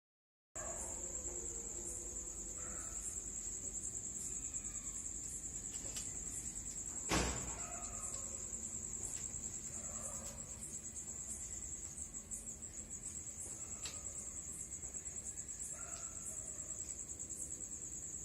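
Night insects trilling steadily in a continuous high-pitched chorus. A single sharp click about seven seconds in.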